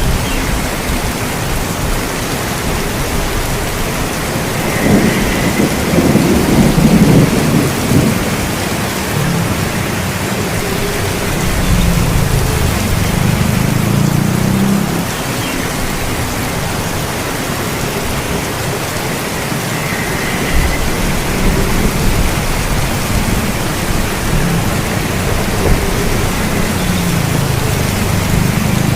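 Steady heavy rain with thunder rumbling low beneath it, the thunder loudest about five to eight seconds in.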